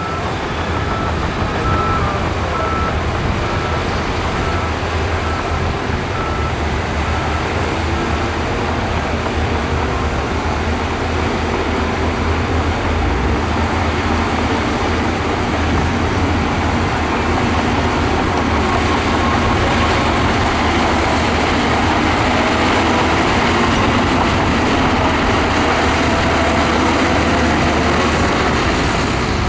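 Heavy earthmoving machinery (bulldozer and dump trucks) with their diesel engines running steadily under load and a low rumble. A reversing alarm beeps repeatedly for the first few seconds, then stops.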